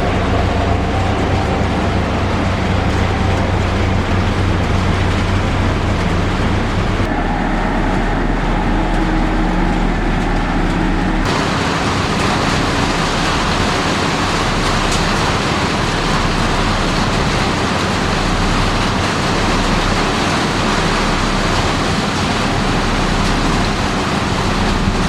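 Heavy construction machinery running, with steady diesel engine noise. The sound changes abruptly twice, at about 7 and 11 seconds in, as different machines come in.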